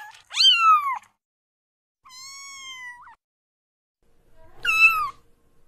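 Domestic cats meowing three times: a short meow that rises then falls about half a second in, a quieter, longer level-pitched meow around two seconds in, and another short falling meow near the end.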